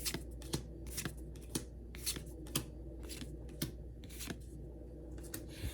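Pokémon trading cards being flicked through one at a time, each card giving a short crisp snap, about two a second, with a pause near the end.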